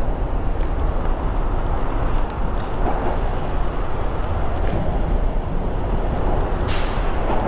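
Mini bike ride heard through a chin-mounted helmet camera: steady wind and motor rumble on the microphone, with a short hiss about seven seconds in.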